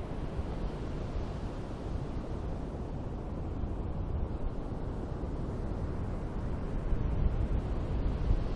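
Ocean waves washing on a beach, with wind buffeting the microphone: a steady, deep wash of noise that swells slightly near the end.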